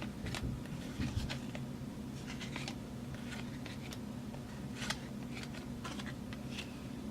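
Football trading cards being handled and flipped through, giving a scattered run of light clicks and brief rustles, over a steady low room hum.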